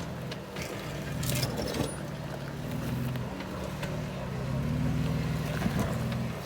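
Jeep engine crawling over rock at low speed, swelling and easing off a few times as the throttle is worked, with scattered sharp clicks and knocks.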